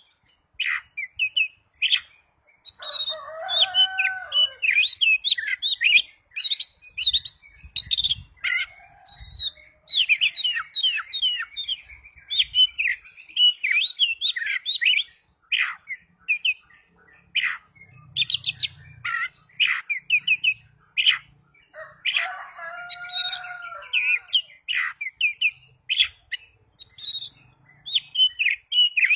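Oriental magpie-robin (kacer) singing without pause: a rapid, varied run of high whistles and chirps. Two lower, harsher phrases come about three seconds in and again about two-thirds of the way through.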